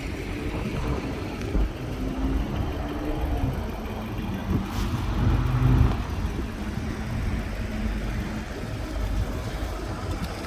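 Car engine idling, a steady low rumble that swells slightly a couple of times.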